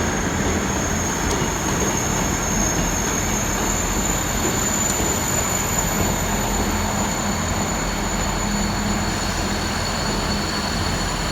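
Class 159 diesel multiple unit rolling into the platform on arrival, a steady rumble of the train running past with a thin, high, steady squeal over it.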